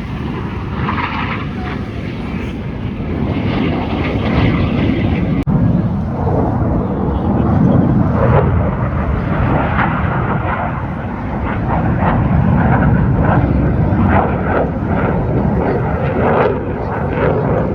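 Jet aircraft flying past: a loud, deep rumble that swells about eight seconds in and again a few seconds later.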